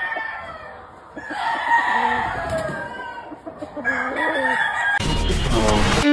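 Gamefowl roosters crowing: one long crow starting about a second in, and a second crow about four seconds in. A short loud rush of noise follows near the end.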